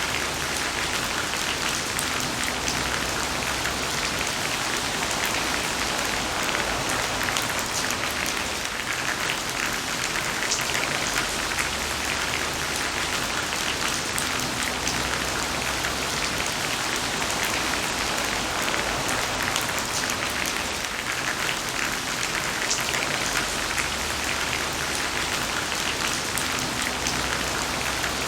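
Heavy rain falling steadily: a dense, even hiss of drops with scattered sharper drop ticks.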